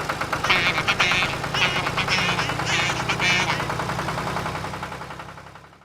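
Tractor engine chugging steadily with rapid, even putts, with some high, wavering sounds over it in the first half; the engine sound fades away near the end.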